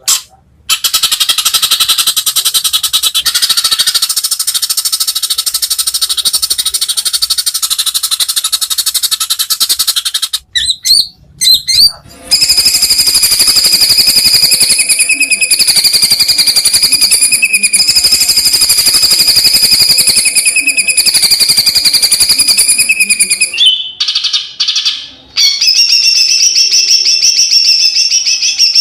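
White-rumped shama (murai batu, Kalimantan type) singing in the 'trotol' style: long, very fast rattling trills like a machine gun. A trill of about ten seconds is followed by a short break with a few brief notes, then a second trill of about eleven seconds, a few scattered notes, and another trill near the end.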